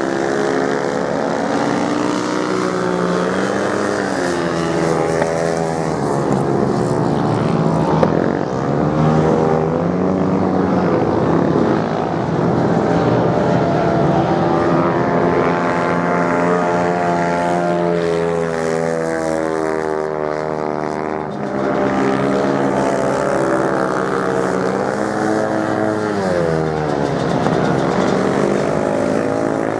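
Several racing motorcycle engines running at once, their pitch repeatedly rising and falling as the bikes accelerate, change gear and ease off.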